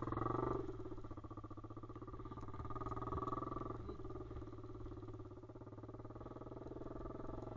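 Pit bike's single-cylinder engine running under throttle. It drops back to a low-throttle chug about half a second in, picks up again for a second or so, then eases off. At low throttle it won't pull through the sticky clay.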